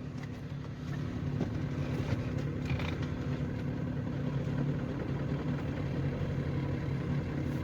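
Vehicle engine running steadily with an even, low hum.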